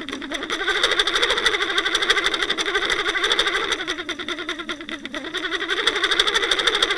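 Motor of the trolling boat heard underwater through a towed camera's housing: a wavering mid-pitched drone over fast, even ticking.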